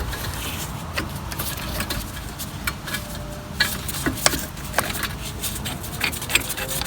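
Piston rewind tool being wound against a front brake caliper piston, pushing it back into its bore, with irregular small metallic clicks and ticks.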